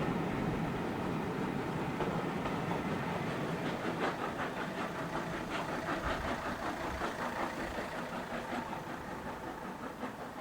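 A steam-hauled train running past with a quick regular beat, growing gradually fainter as it moves away.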